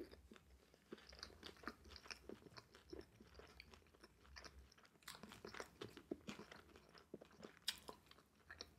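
Faint close-up chewing of battered sweet and sour pork and rice: soft wet crunches and mouth clicks, busier in the second half.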